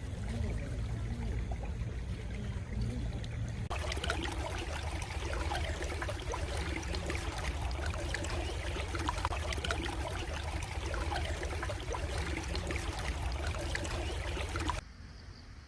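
Stream water trickling and splashing over stones, a steady rush full of small droplet ticks with a low rumble beneath. About four seconds in the sound turns abruptly brighter and busier, and it drops sharply quieter near the end.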